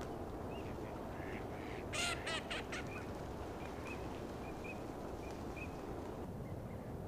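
A duck quacking a quick run of four or five calls about two seconds in, with faint short chirps of small birds scattered around it over a steady background rush.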